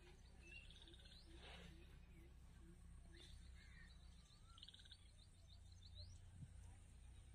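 Faint outdoor ambience: small birds chirping and trilling, with a low call repeated about twice a second for the first three seconds, over a low steady hum.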